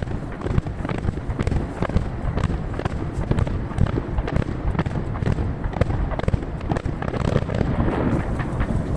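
Aerial firework shells bursting in rapid succession, played at three times normal speed, so the bangs crowd together into a dense, unbroken barrage.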